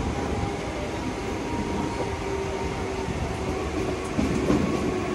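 Mumbai suburban local train, an electric multiple unit, running on the track: a steady rumble with a faint steady whine over it.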